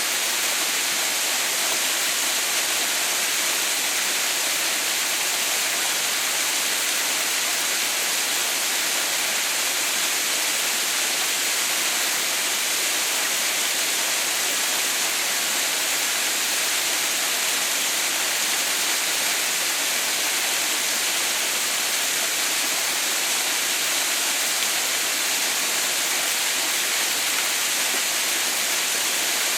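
Water falling at Haha no Shirataki waterfall: a steady, even rushing hiss with no change or break.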